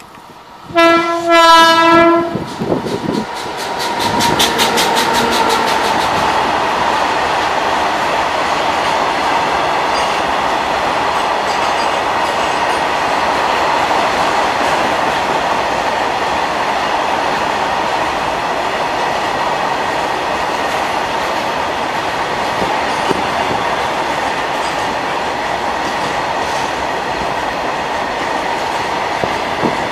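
A WAG-9 electric locomotive sounds its horn once, for about a second and a half, as it approaches. Then its long rake of open freight wagons rolls past close by at speed, with a steady rumble and the clatter of wheels on the rails.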